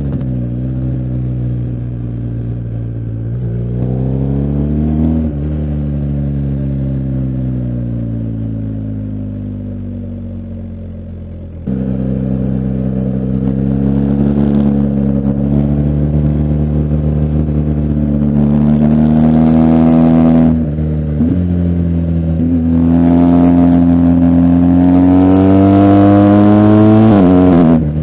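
BMW R1250GS Adventure's boxer-twin engine pulling through the gears. The revs climb and dip at a gear change, then fall away on a closed throttle for several seconds. The throttle opens again with a sudden jump in loudness, followed by two long rising pulls, each cut short by an upshift.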